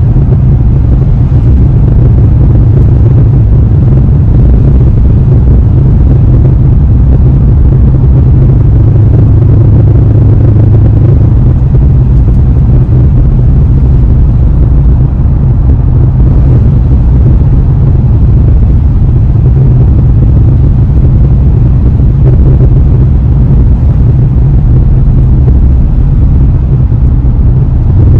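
Porsche Panamera GTS V8 and exhaust running steadily while driving at an even pace, a constant deep low rumble with no revving.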